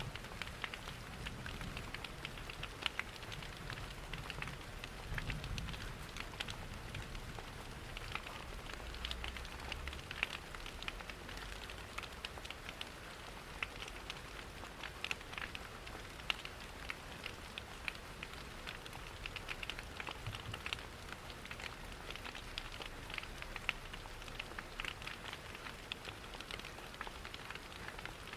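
Steady rain pattering, mixed with the crackle of a wood fire in a fireplace, over a low continuous rumble. Many small sharp ticks run through it all.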